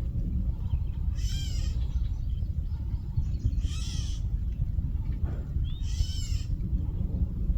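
An adult songbird gives harsh, loud squawks three times, about every two and a half seconds: alarm calls at a black snake raiding its nest. A steady low rumble runs underneath.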